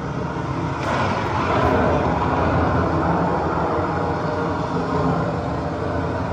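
Heavy rain pouring down, a loud steady rush with a low rumble underneath.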